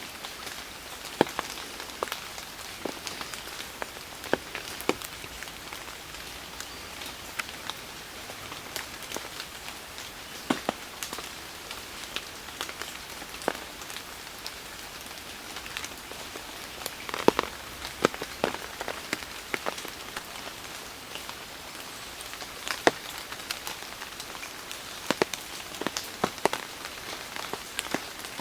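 Steady rain, with scattered heavier drops landing as irregular sharp ticks.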